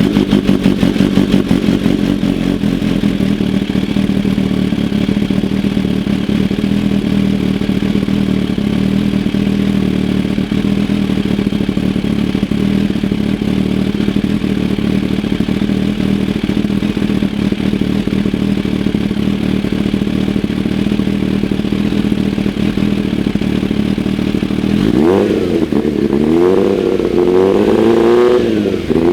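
Kawasaki Ninja H2's supercharged inline-four, warm, running through a Brock's Performance Spark exhaust. It idles steadily, then about 25 seconds in it is revved in several quick throttle blips, rising and falling.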